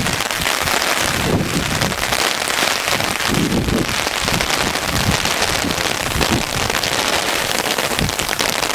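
Hail falling steadily and heavily, a dense patter of countless small hailstone hits.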